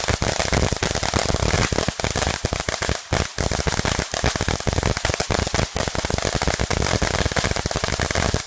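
Consumer fireworks going off in a dense, rapid barrage of sharp bangs and crackles, many pops a second.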